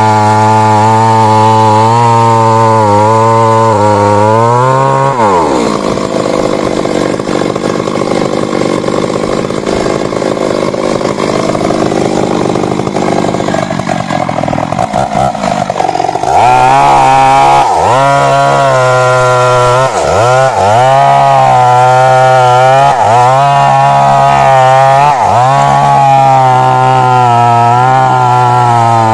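Stihl MS 382 two-stroke chainsaw running at high revs, then dropping in pitch about five seconds in and running rough under load for roughly ten seconds as it cuts. It then picks back up to a high note, with several brief dips in pitch as the chain bites the wood.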